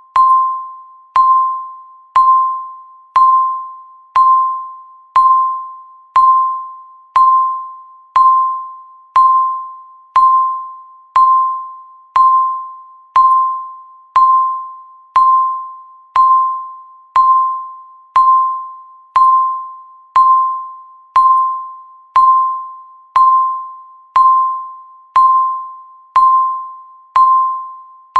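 Countdown timer's tick sound: a short, clear electronic ding struck once every second, each one fading away quickly before the next.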